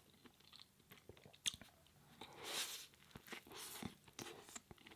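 Faint close-miked chewing of a plant-based burger: soft wet mouth clicks, with a couple of short soft noisy swells in the middle.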